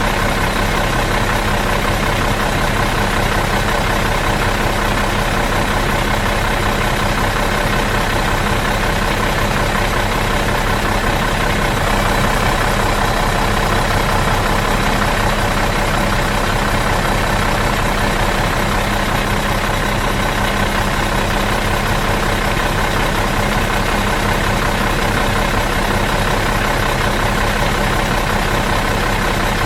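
A bus's diesel engine idling steadily in neutral, an even unchanging drone.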